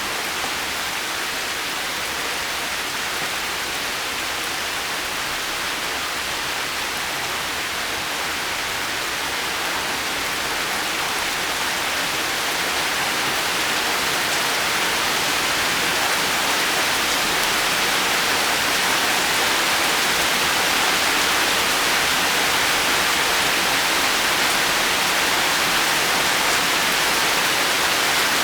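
Heavy rain falling steadily, an even dense hiss of drops, growing slightly louder over the second half.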